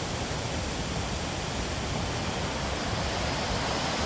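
Steady rushing roar of Bogatha Waterfall's water pouring down.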